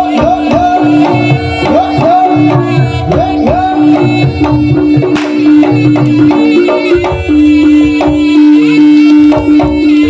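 Live jaranan music: Javanese hand drums played in a busy rhythm over a long held tone, with a string of short rising swoops in the first few seconds.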